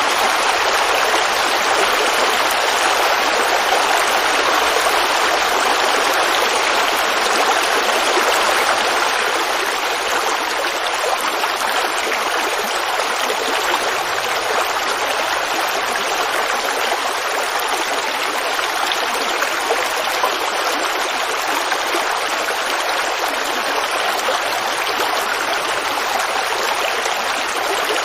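Creek water babbling steadily, an even rushing sound with no breaks, a little softer from about a third of the way in.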